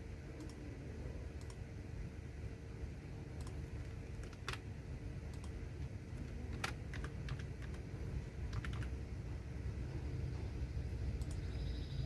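Computer keyboard typing: sparse, irregular keystrokes, about a dozen separate clicks with gaps between them, over a steady low background hum.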